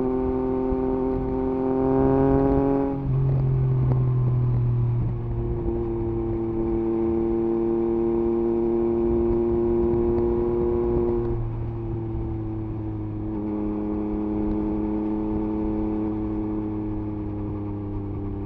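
Yamaha MT-09 SP's 890 cc inline-three engine, breathing through an Akrapovič exhaust with the dB killer removed, under way. The note climbs slightly under throttle and drops sharply about three seconds in, then holds steady at cruise. It steps down in pitch twice more after about eleven seconds.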